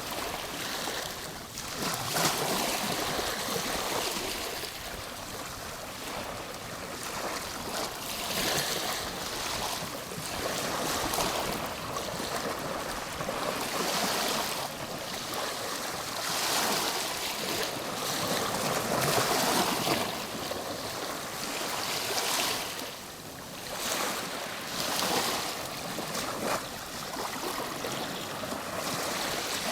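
Ocean waves breaking and washing on the shore, a continuous surf hiss that swells and ebbs every few seconds.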